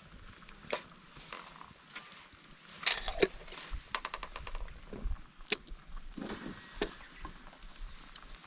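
Scattered light clicks and knocks, with a quick cluster of them about three seconds in.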